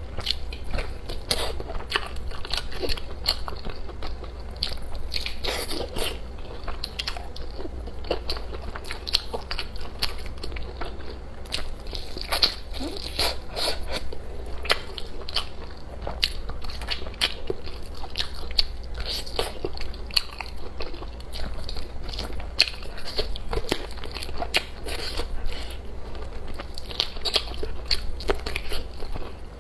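Close-miked eating: a person biting and chewing food, with many irregular crisp crunches and clicks throughout.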